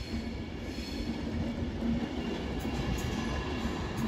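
Avanti West Coast Class 390 Pendolino electric train pulling out of the station, its wheels rumbling steadily over the track with a faint thin squeal.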